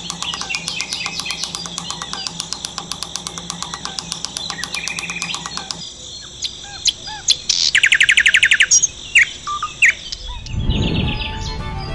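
Background music with a quick steady beat, then from about halfway birds chirping, with a fast trill a little later and a low whoosh near the end.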